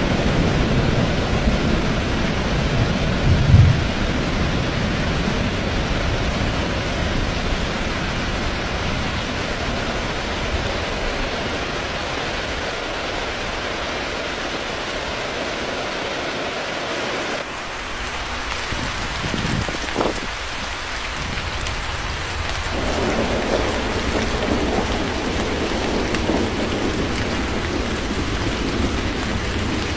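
Steady rain falling, with low rumbles of thunder: heaviest in the first few seconds, with one sharper clap about three and a half seconds in, and rolling again in the last third.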